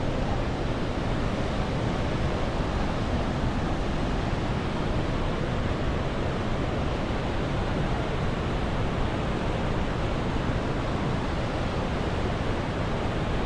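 Salto San Martín, one of the large Iguazú waterfalls, giving a loud, steady rush of falling water that holds unchanged throughout.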